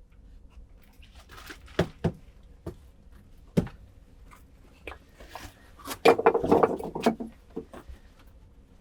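Handling noises in a small room: a few separate sharp knocks, then a short burst of clattering and rustling about six seconds in.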